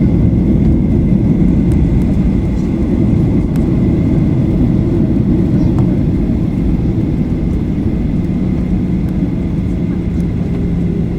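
Boeing 737-800 cabin noise heard from inside: a steady low rumble of the CFM56-7B engines and airflow. A steady hum comes in about eight seconds in.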